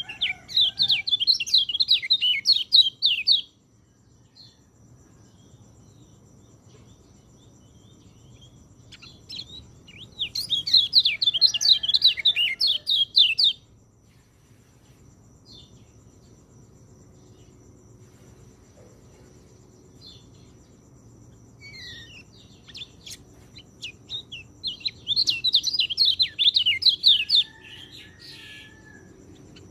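Orange-headed thrush singing in three bursts of rapid, high notes, each about three seconds long: one at the start, one about ten seconds in, one about twenty-five seconds in. Scattered single notes fall between them.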